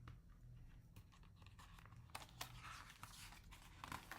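Near silence with a few faint paper rustles and soft clicks, as a picture book's page is turned.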